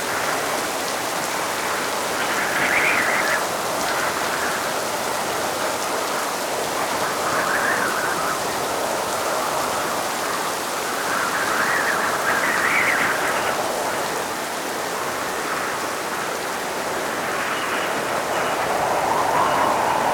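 Steady rain falling, a continuous hiss that swells and eases every few seconds.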